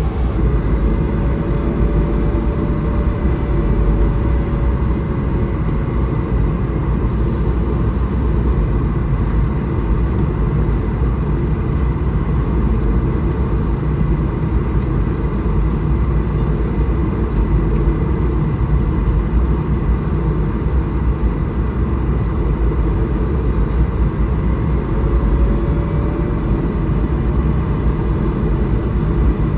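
Steady cabin noise inside an Airbus A220-300 in flight: a loud, even rush of air with a low rumble, and a faint engine tone that slowly drifts up and down in pitch.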